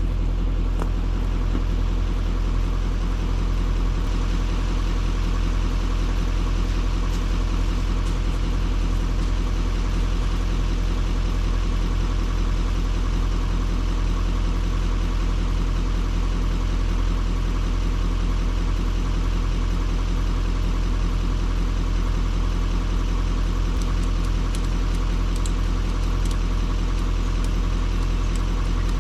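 Chevy Duramax diesel truck engine idling steadily, a low even rumble with no change in speed.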